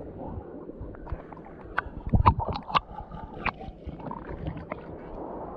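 Shallow water sloshing and splashing, with a run of sharp clicks and knocks about two to three seconds in.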